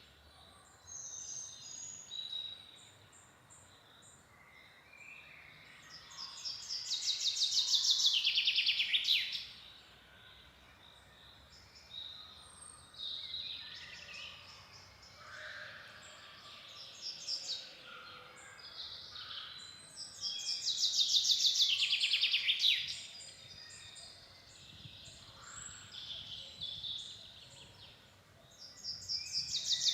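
Wild songbirds singing. One bird repeats a loud, rapid trilled song phrase about three seconds long that falls in pitch: twice in full, and again starting near the end. Quieter calls and chirps from other birds fill the gaps between.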